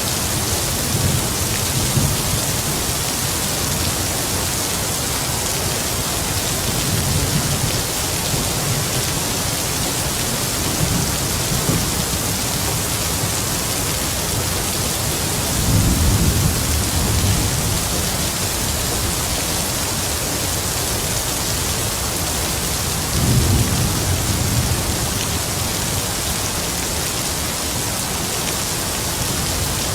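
Heavy rain falling in a steady hiss, with distant thunder rumbling low several times, strongest about halfway through and again about three quarters of the way in.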